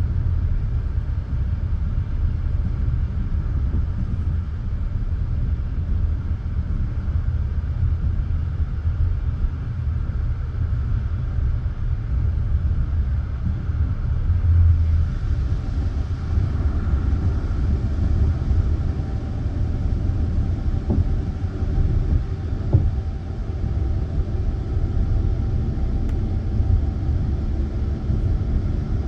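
Passenger train carriage running along the line, heard from inside: a steady low rumble of the wheels on the rails, with a brief louder thump about halfway through.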